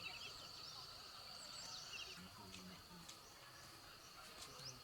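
Faint rural ambience: a steady high insect drone with scattered bird chirps and a few light clicks.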